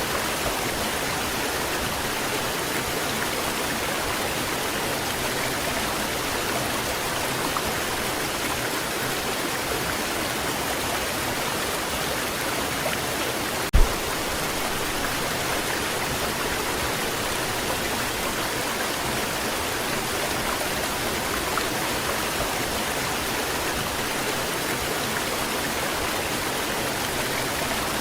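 Waterfall rushing steadily, an even unbroken roar of falling water. About halfway through there is one brief low thump.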